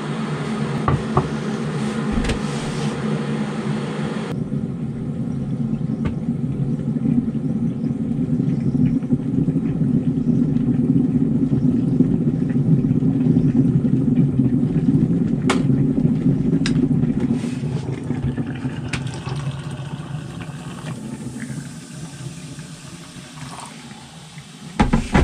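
Steady low rumble that swells in the middle and fades over the last several seconds, with a few light clicks and knocks.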